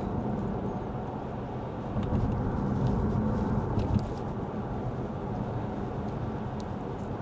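Lexus ES 350 F Sport driving on a wet road, heard from inside the cabin: a steady low rumble of road and tyre noise. It grows louder for about two seconds from about two seconds in and ends that stretch with a sharp click.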